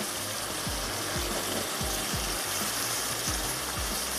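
Spiced masala sizzling and bubbling in a pan over a low gas flame, with frequent soft low pops. It is being cooked down until its water dries off and the oil separates.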